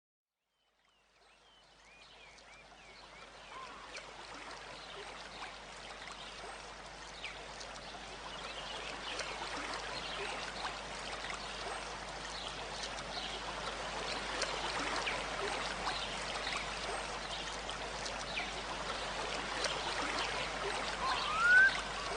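Many small birds chirping and calling over a steady rushing background that fades in over the first few seconds. Near the end, a loud upward-sweeping call sounds twice.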